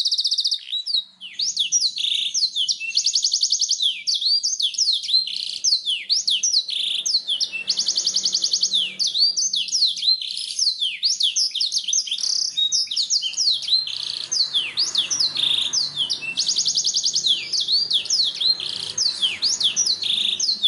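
Black-throated canary (blackthroat) in full, unbroken song: a fast stream of high, sweeping whistled notes, broken several times by rapid buzzy trills.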